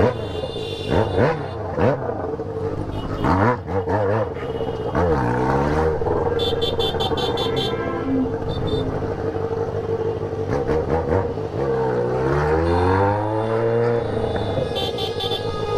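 Motorcycle engines, among them a straight-piped Yamaha XJ6 running with only the header pipe, revving up and down again and again in a motorcade. Horns toot about six seconds in and again near the end.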